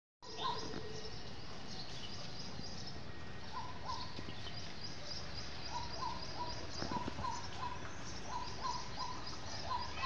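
Small birds chirping many short, repeated notes, some high and thin and others lower, over a steady low outdoor background noise.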